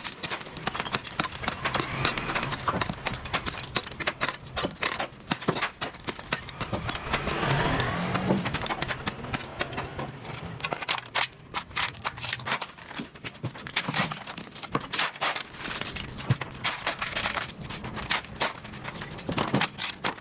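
Street sweeping: quick, crackly scrapes of cleaning tools on the pavement, with a vehicle passing about eight seconds in.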